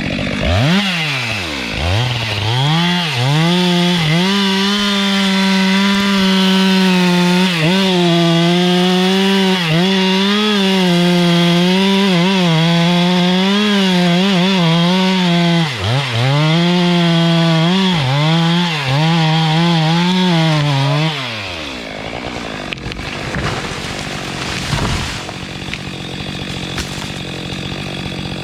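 Two-stroke chainsaw revved up to full throttle and held there while cutting, its pitch sagging and recovering a few times. About three-quarters of the way through, the throttle is let off and the engine note falls away, leaving a quieter, more even noise.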